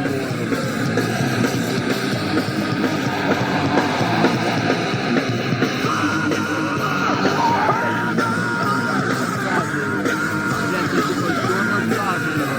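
Rock music with a loud singing voice and guitars, playing continuously; the voice holds a long wavering note from about halfway through.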